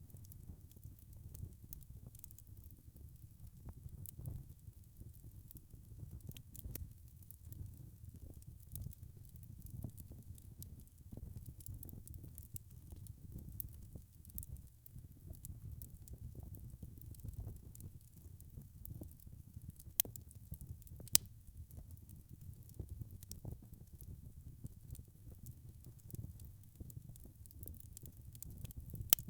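Wood fire crackling in a fireplace: a low, steady rumble of burning logs under a constant scatter of small snaps and ticks. Two louder pops come about a second apart, past the middle.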